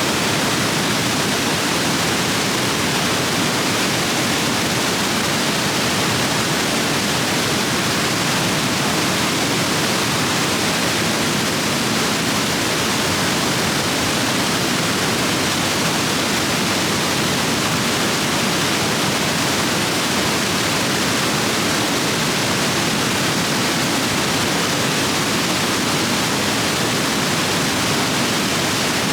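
Rapids of a rain-swollen stream rushing over rocks: a steady, loud, even roar of water.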